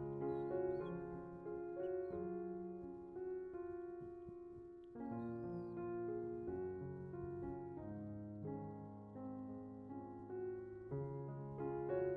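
Slow piano background music, a few sustained notes at a time, with a couple of faint short high calls over it.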